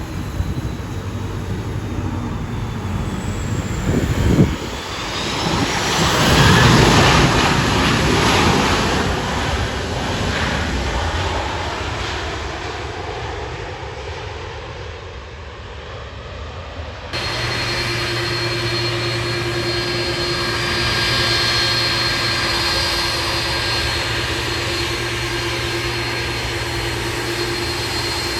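Aircraft engines passing close. The sound swells to a peak with falling whines and dies away, typical of an aircraft flying by. Then a steady, even engine sound with a held whine, as of an aircraft's engines running steadily.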